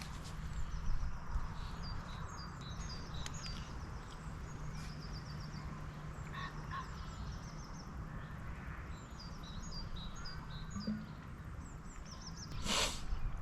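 Songbirds singing: repeated phrases of short, high-pitched chirping notes, over a steady low outdoor rumble. A brief rustle or knock sounds near the end.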